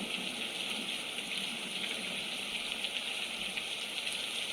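Steady rain falling, an even wash of fine patter with no letting up.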